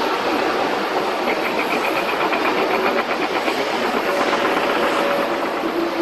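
Steady jet engine noise from a China Airlines Airbus A321neo's twin turbofans.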